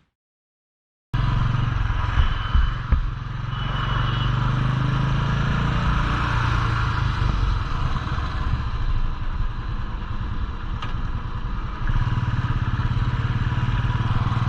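After about a second of silence, a Royal Enfield Classic 350's single-cylinder engine running steadily while riding, with wind rushing over the microphone. There are a few knocks about two to three seconds in.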